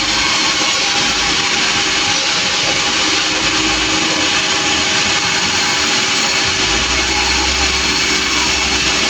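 Sawmill running: a loud, steady hiss from the saw over a constant hum. A low rumble joins in about two-thirds of the way through.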